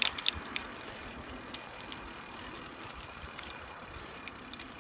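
Bicycle coasting fast downhill: a steady rushing noise of wind on the phone's microphone and tyres on the road, with a quick run of sharp rattling clicks at the start and a few more scattered later.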